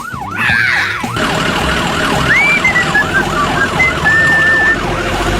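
Emergency-vehicle siren in a fast yelp, its pitch swooping up and down about three times a second.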